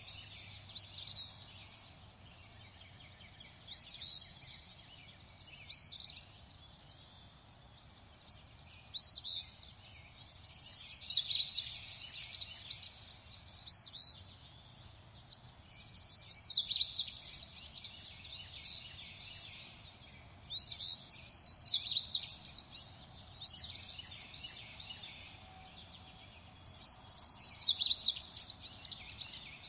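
Songbirds singing: short high chirps, with a rapid trill of about two seconds every five or six seconds.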